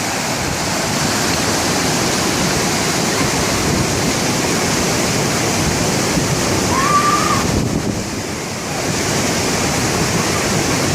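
Rushing water of a stream cascading over rocks, loud and steady, with a brief dip in level about eight seconds in.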